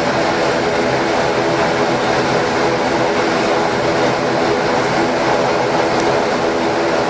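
Steady drone of an ATR 72's twin Pratt & Whitney PW127 turboprop engines and propellers, heard from inside the passenger cabin, with a constant hum of several even tones over a rushing noise.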